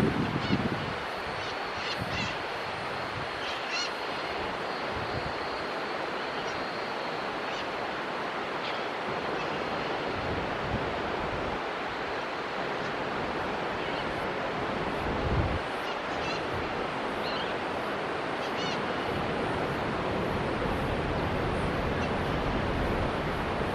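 Faint short bird calls every few seconds over a steady rushing hiss, with a couple of low wind buffets on the microphone.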